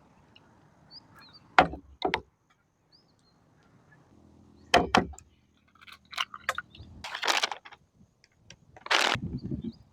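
Handling noises: two pairs of sharp knocks, a few lighter clicks, then two short bursts of scraping or rustling.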